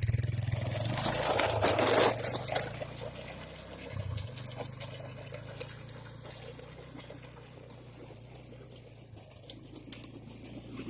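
ATV engine running steadily, with a loud rough crunching noise for about two seconds near the start as the ATV goes over a push lawn mower.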